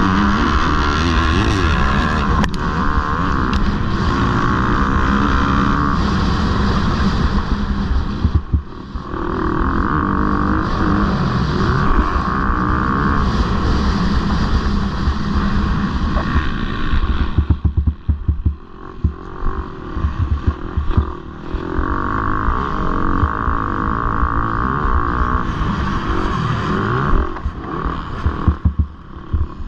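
Motocross bike engine revving hard, its pitch rising and falling through the gears. The throttle is shut briefly about a third of the way in, for a longer stretch past the middle, and again near the end, with choppy bursts of throttle in between.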